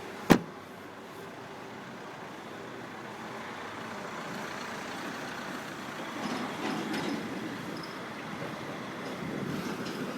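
Toyota Hiace van's engine running steadily after a cold start, with one sharp click just after the start.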